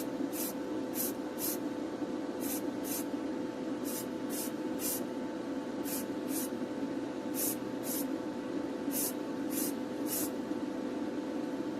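Aerosol spray can of metallic blue paint fired in short, quick bursts, about seventeen brief hisses, often in pairs, as a light coat goes on. Under them an extractor fan hums steadily.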